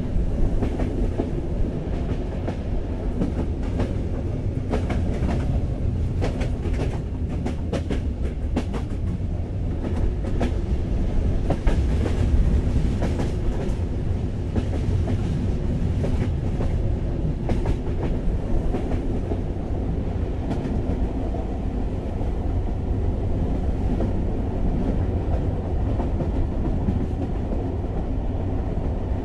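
Steady low rumble of a moving passenger train, heard from inside the carriage, with a spell of sharp clicking over the first half.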